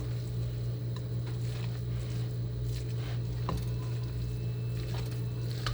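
Wet, squishy sounds of a spoon working mayonnaise into a bowl of chicken salad, with a couple of light clicks of the utensil against the bowl, over a steady low hum.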